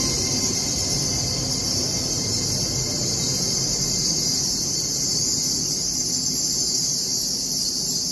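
LNER Class 801 Azuma electric train rolling slowly into the platform to stop: a low rumble from the wheels and running gear under a steady high hiss.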